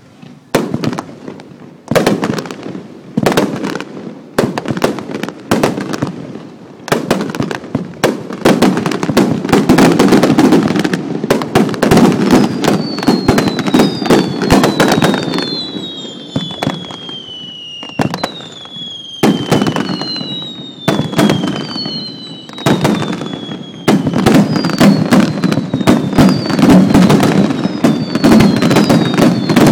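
Set-piece fireworks going off: a dense, rapid crackling and popping with a few brief lulls. From about halfway through, a run of falling whistles sounds over the crackle.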